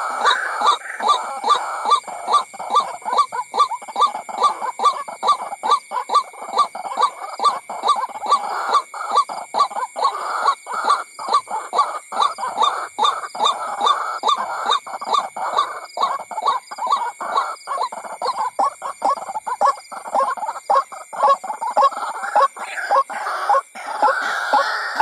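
White-breasted waterhen calling: a fast, unbroken run of harsh repeated notes, about three a second.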